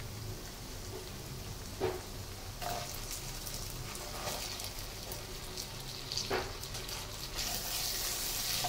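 Green chillies sizzling as they land in hot oil and spice paste in a non-stick frying pan, a steady frying hiss with a few light knocks. Near the end a spatula stirs them and the sizzle grows louder.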